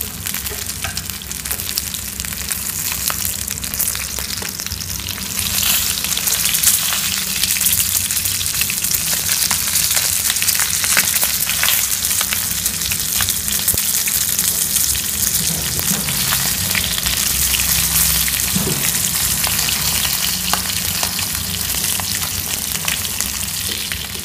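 Pieces of field rat meat sizzling and spattering in hot oil and fish sauce in a frying pan, a dense crackle of tiny pops that grows louder about five seconds in. The meat is already browned golden and cooked through.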